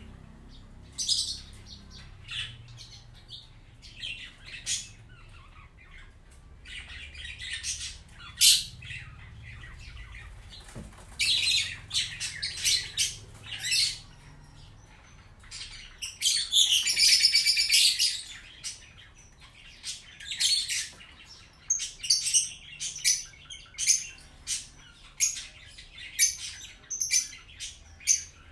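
Birds chirping and squawking in short, irregular calls, with a denser two-second run of calling a little past the middle.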